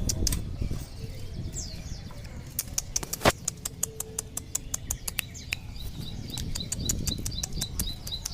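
Eurasian tree sparrow chirping in a long series of short, quick notes, with one sharp louder click about three seconds in.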